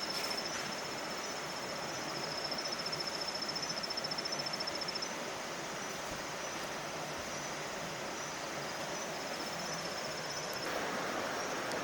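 Outdoor ambience: a high, rapidly pulsing trill that fades out about halfway, over a steady hiss that grows louder near the end.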